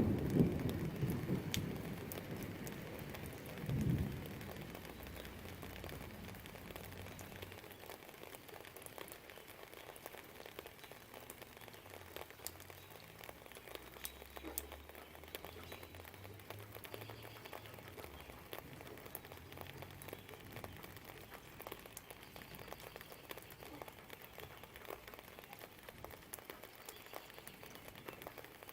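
Steady light rain with scattered drips, under the fading tail of a distant thunder rumble that dies away over the first couple of seconds. A shorter low rumble swells about four seconds in.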